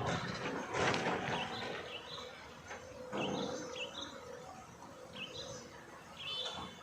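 Birds chirping in short repeated notes, over outdoor background noise with a couple of louder rushing swells.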